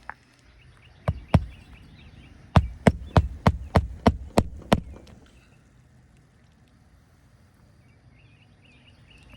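Hammer driving a roofing nail through an asphalt shingle: two light taps to set the nail, then about eight quick, even blows, roughly three a second, to drive it home.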